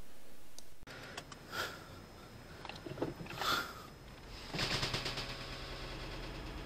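Car engine running, heard from inside the cabin: a low hum with faint road noise that turns into a louder, rapid rattle about four and a half seconds in.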